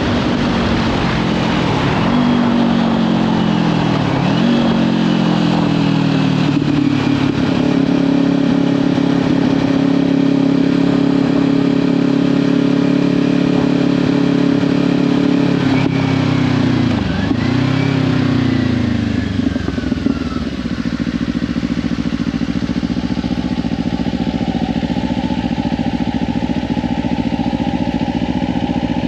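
Kawasaki Ninja 500's parallel-twin engine running under way through a Leovince slip-on exhaust, with wind noise on the microphone. The engine note dips sharply and recovers three times, and drops to a lower, slightly quieter note about two-thirds of the way through.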